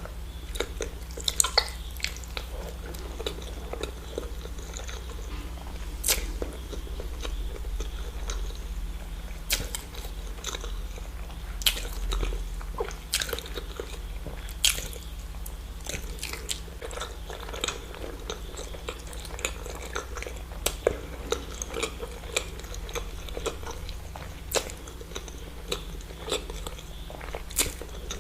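Close-miked eating: eggs being bitten into and chewed, with wet mouth smacks and sharp irregular clicks over a low steady hum.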